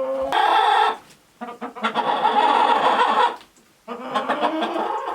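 Chickens calling loudly in their coop: three long calls in a row, the middle one the longest.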